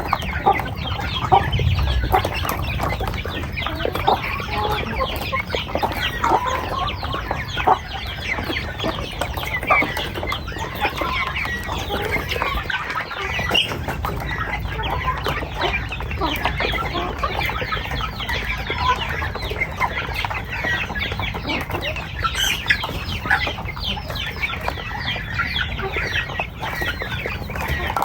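A flock of chickens clucking continuously, many short overlapping calls.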